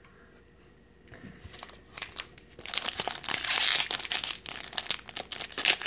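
Foil booster pack wrapper crinkling as it is handled and worked open. The crinkling starts about a second in and gets loud about halfway through.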